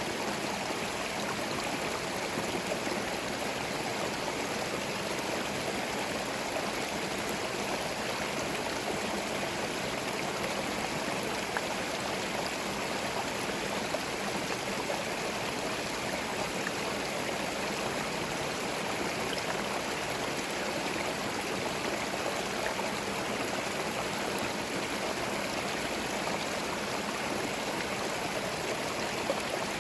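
A small forest stream flowing steadily over stones, a continuous babbling and splashing of water.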